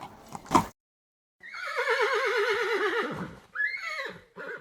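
Horse hooves clip-clopping, then a pause, then a horse whinnying. One long neigh with a quavering pitch that slides down is followed by two short calls.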